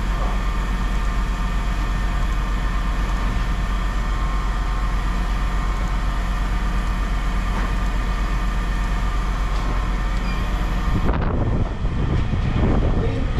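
A vehicle engine idling steadily with a low hum. About eleven seconds in, the sound changes, with some knocks and rattles over the running engine.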